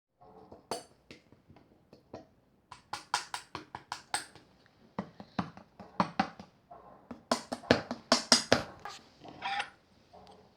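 Clear slime being squeezed and poked by hand, giving clusters of sharp clicking pops, thickest around three seconds in and again near the eight-second mark.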